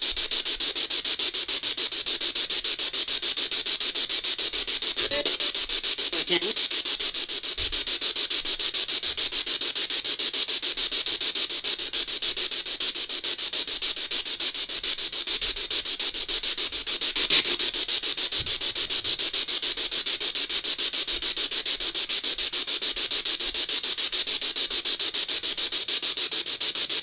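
Ghost box (spirit box) running: a steady, rapidly flickering hiss of radio static as it sweeps through stations, with brief snatches of sound about five to six seconds in and a sharp blip at about seventeen seconds.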